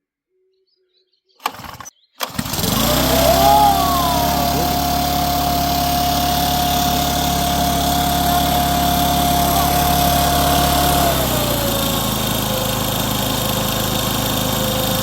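Mast MB900 engine leaf blower being pull-started for its first cold start. A short rattle of the starter pull comes first, then the engine catches about two seconds in and runs loud and steady at high revs. Its pitch drops a little about eleven seconds in as the revs settle.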